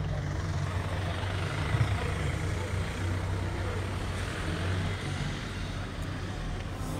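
A car engine idling steadily: a low, even rumble with a background hiss.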